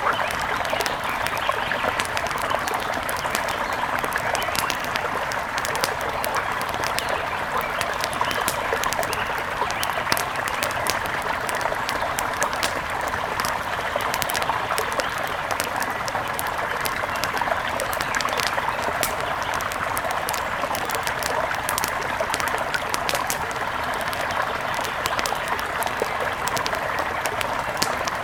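A mountain river rushing steadily, with an outdoor wood fire crackling and popping over it in frequent sharp snaps.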